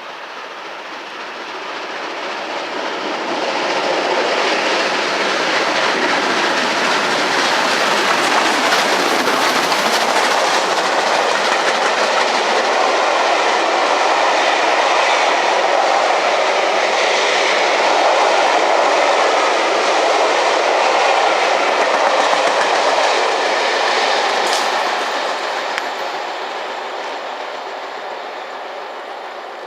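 A train passing on the line: its running noise builds over the first few seconds, stays loud for about twenty seconds, then fades away.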